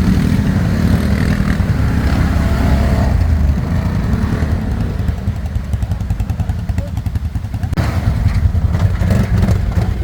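ATV engine running, louder for the first few seconds, easing off in the middle, then picking up again about eight seconds in.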